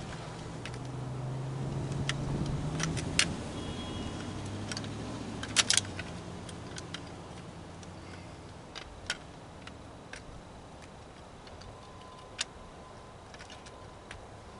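Scattered sharp metallic clicks and clinks of hand tools and metal parts being handled while an air compressor is taken apart for scrap. The loudest is a quick double clink about five and a half seconds in. A passing vehicle's engine hum swells and fades over the first few seconds.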